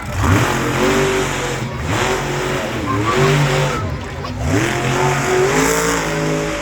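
Monster truck engine revving hard, its pitch climbing and dropping back several times, with sharp rises near the start, about two seconds in and again about four and a half seconds in.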